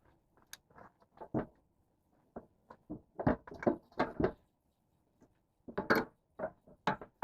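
Irregular short knocks and clinks of hand tools and metal parts while a truck engine's belt idler pulley is being fitted, with a busier cluster of knocks in the middle.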